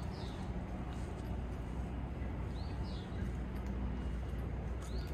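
A bird calling a short two-note chirp, one note rising and the next falling, three times about two and a half seconds apart, over a steady low background rumble.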